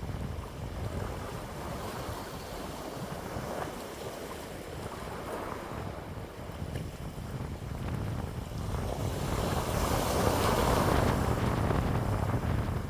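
Wind blowing in gusts and buffeting the microphone with a low rumble, swelling into a stronger gust about three-quarters of the way through.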